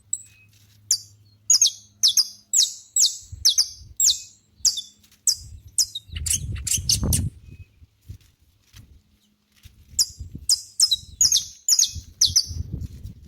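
Saffron finch singing: two runs of short, sharp, high notes repeated about two to three a second, with a pause of a few seconds between them. A low rumble comes midway and again near the end.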